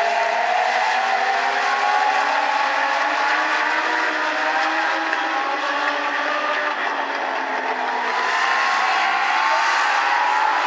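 A pack of Legends race cars running hard on the oval, their Yamaha motorcycle engines at high revs. Several engine notes overlap and climb slowly in pitch as the cars accelerate.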